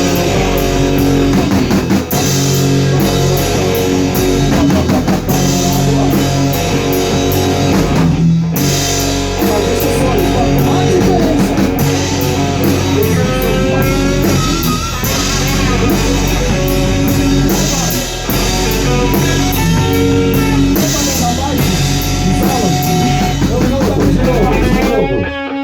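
Rock band playing together: electric guitars, bass and drum kit. The whole band stops dead for a moment about eight seconds in, then carries on, and cuts off near the end.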